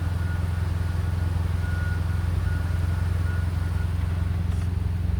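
Motor vehicle running, a steady low rumble with no change through the stretch.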